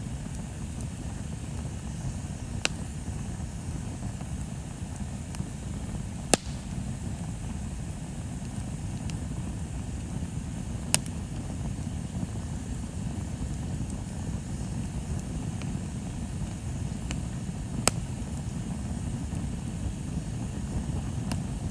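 Bonfire burning with a steady low rumble, and the wood popping and crackling in sharp single cracks every few seconds, about four of them loud.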